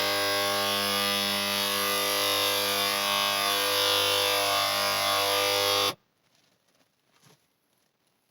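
A motor running at one steady pitch for about six seconds, cutting in and out abruptly.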